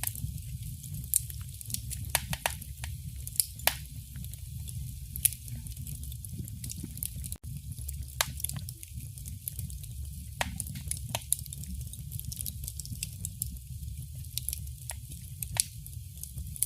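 Wood fire burning in a fireplace: a steady low rumble with frequent sharp, irregular crackles and pops, a handful of them louder snaps.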